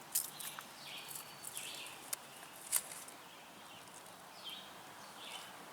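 Quiet outdoor ambience with bird chirps, each a short call sliding down in pitch and repeated every second or so, and a few sharp clicks and taps from handling.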